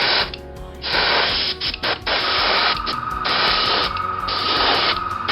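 Airbrush spraying freshly mixed Humbrol gold paint in a series of short hissing bursts, each about half a second long, with brief pauses between them.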